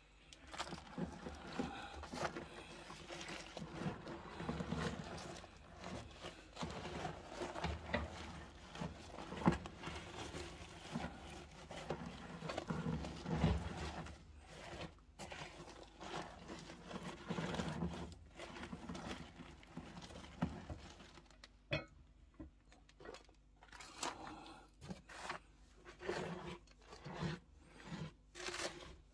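Irregular scraping, rustling and knocking of objects being handled, with scattered sharper knocks in the second half.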